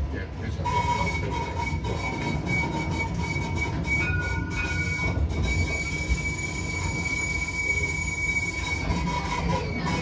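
Light rail tram's wheels squealing as it rounds a curve: a steady high squeal starts under a second in and holds almost to the end, with a second brief tone about four seconds in. The tram's low running rumble continues underneath.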